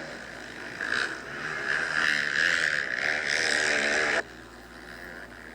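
Motocross bike engines revving, rising and falling in pitch for about three seconds, then cutting off suddenly about four seconds in, leaving a lower steady hum.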